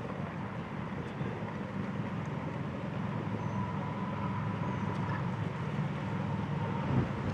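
Personal watercraft engine running steadily at low speed, towing a disabled ski.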